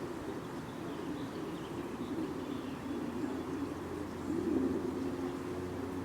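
Dove cooing low, with a few faint high chirps of small birds in the first half.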